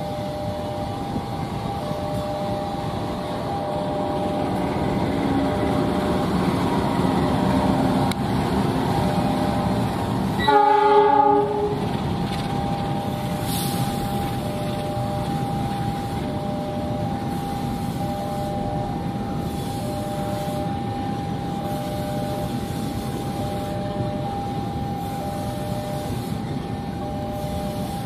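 A long train passing, its rumble building over the first eight seconds or so and easing off after. Near the middle a train horn sounds once for about a second, the loudest moment. A level-crossing warning alarm keeps sounding: a steady tone with a second tone pulsing about every second and a half.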